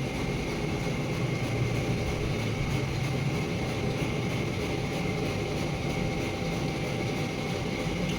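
Steady drone of running machinery, an engine or motor humming evenly with a faint high whine above it.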